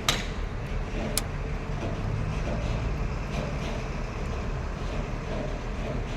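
Steady low engine rumble with two sharp clicks, one right at the start and one about a second in.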